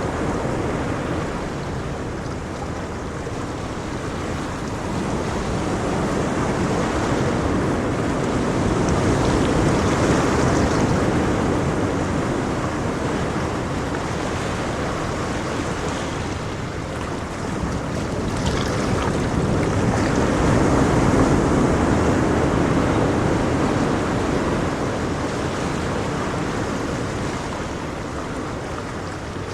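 Ocean waves breaking and washing on a shore, a steady surf wash that swells twice, about ten seconds apart.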